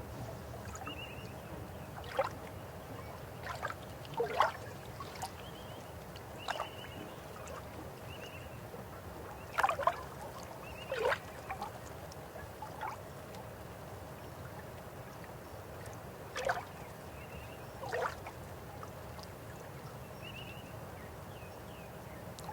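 River water flowing steadily, with about eight short, sharp sounds scattered through it and a few faint high chirps.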